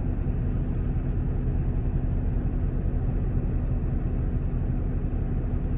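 Steady low rumble of a semi-truck's diesel engine idling, heard from inside the cab.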